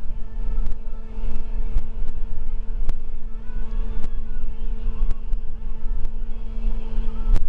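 School bus running, heard from inside the cabin: a low engine and road rumble with a steady hum, and scattered sharp rattling clicks.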